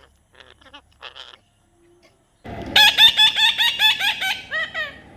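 Parrot calling: a few faint chirps, then from about two and a half seconds in a loud rapid series of about a dozen harsh repeated notes, roughly five a second, which stops shortly before the end.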